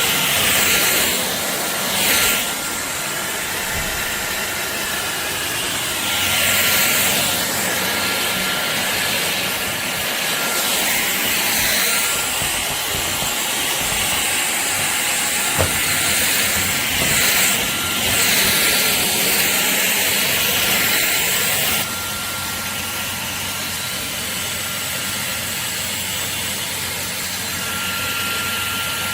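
Shark Detect Clean & Empty cordless stick vacuum running with a steady hiss and high whine, swelling repeatedly as it is worked, then settling to a lower, steadier level about 22 seconds in.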